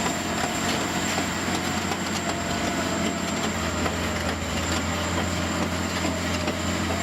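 Heavy machinery running steadily: a continuous low engine hum under even mechanical noise, with a thin, steady high whine.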